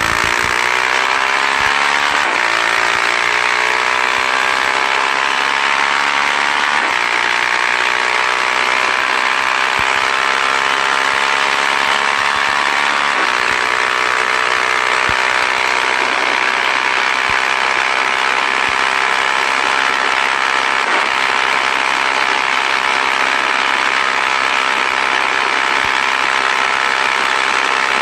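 Motorcycle engine revved up and held at high revs, its pitch climbing over the first few seconds and then holding steady, with only slight pitch shifts.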